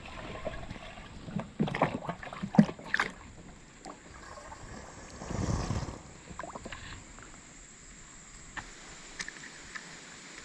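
Handling knocks and clicks aboard a kayak: a cluster of sharp knocks, the loudest about two and a half seconds in. A brief rushing swell follows about five and a half seconds in, then only a few small clicks.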